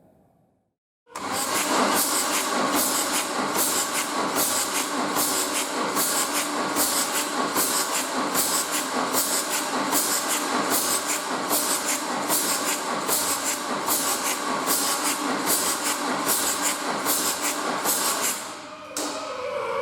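Fiat Ducato 2.3 MultiJet diesel engine on a test stand: a loud, steady mechanical noise with a regular pulse about twice a second. It starts abruptly about a second in and drops away near the end.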